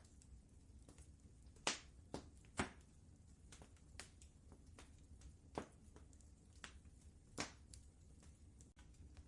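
Wood fire crackling in a fireplace: irregular sharp pops and snaps, three of them louder than the rest, over a low steady rumble.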